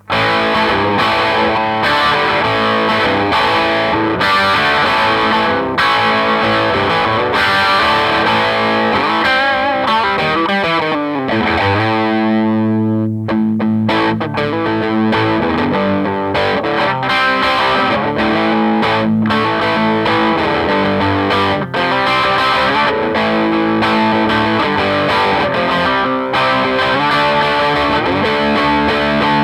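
Distorted electric guitar, a Gibson Les Paul Studio played through a Marshall JTM60 valve amp, playing riffs and lead lines. It bends notes and holds one long note about halfway through.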